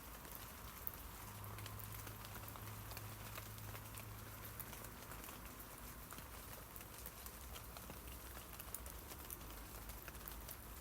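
Rain falling on tree leaves: a steady patter of countless small drops hitting foliage, with many sharp individual drip ticks.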